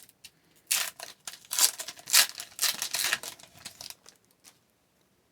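A foil trading-card pack wrapper being torn open and crinkled, in a run of rustling tearing bursts over about three seconds, then a few faint clicks before it goes quiet.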